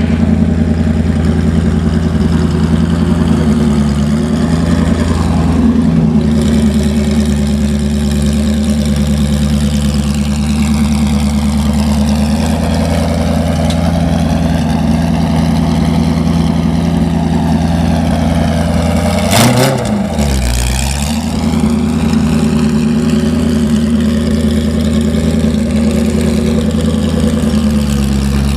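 Ford GT40's V8 engine running at steady low revs as the car drives. About two-thirds of the way in there is a sharp knock, and the engine pitch briefly drops and rises again.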